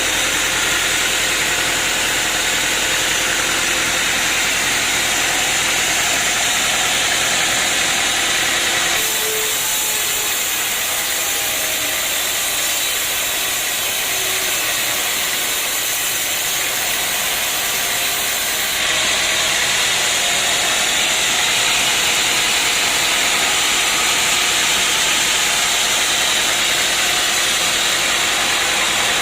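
Sawmill machinery running, a loud steady rushing noise with an engine hum underneath. The sound shifts abruptly about nine seconds in, when the low hum drops away, and shifts again a little before twenty seconds.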